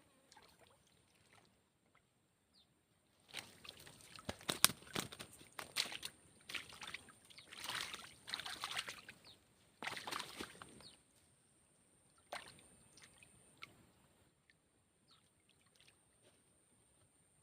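Water splashing and sloshing in irregular bursts with sharp clicks for several seconds, then a few isolated clicks.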